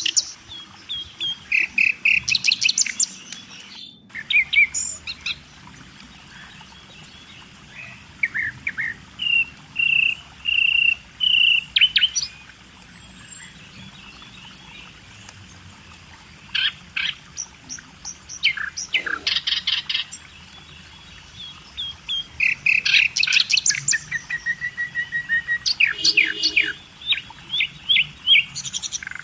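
Songbirds singing and calling: quick series of chirps, short whistled notes and high, thin trills overlapping throughout.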